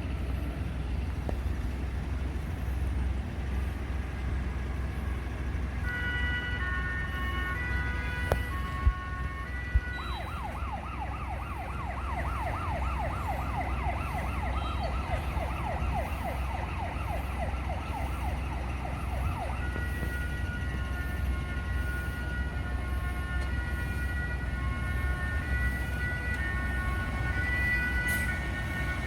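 Emergency vehicle siren over a low vehicle rumble. It starts as an alternating two-tone pattern, switches to a rapid yelp for about ten seconds, then goes back to the alternating tones. A few sharp knocks come just before the yelp starts.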